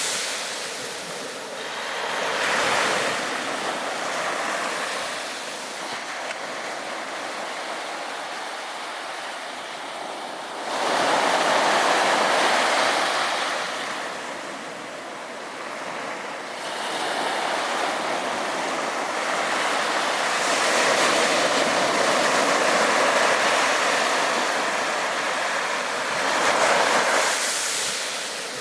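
Sea waves breaking and washing on a beach, in slow surges every few seconds, the strongest coming in suddenly about eleven seconds in. Wind rushes over the microphone.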